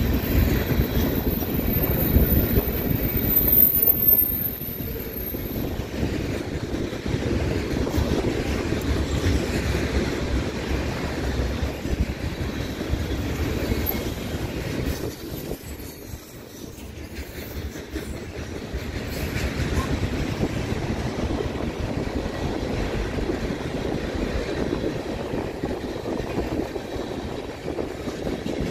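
Freight cars of a passing train, loaded tank cars and covered hoppers, rolling steadily by on the rails: a continuous rumble with wheels clicking over the rail joints and a thin high squeal in the first few seconds. The sound eases briefly about halfway through, then goes on steadily.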